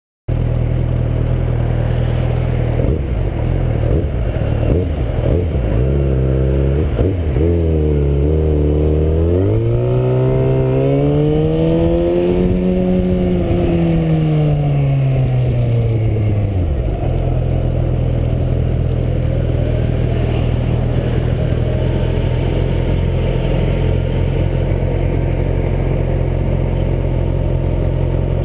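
2009 Kawasaki Ninja ZX-6R's inline-four engine idling, with a few quick throttle blips. About a third of the way in, the revs climb smoothly for a few seconds and fall back, and it settles into a steady idle.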